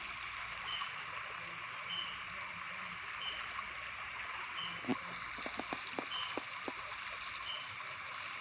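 Insects chirping over a steady hiss: a short high chirp repeating evenly about three times a second, with a lower chirp about once a second. A quick run of faint ticks comes a little past the middle.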